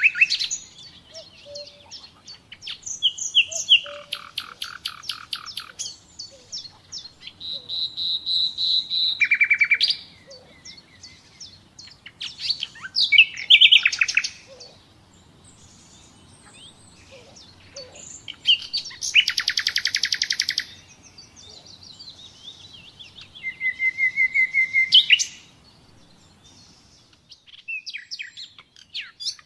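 Common nightingale singing: varied phrases of rapid repeated notes and trills, with one long whistle that swells in loudness, separated by pauses of a second or more.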